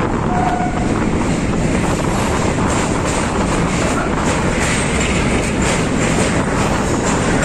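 Passenger train running across a riveted steel truss bridge, heard from inside the train: a loud, steady rumble of wheels on rails with scattered clicks.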